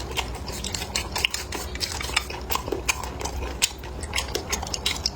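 Eating utensils clicking and scraping against dishes, a quick irregular run of small sharp clicks.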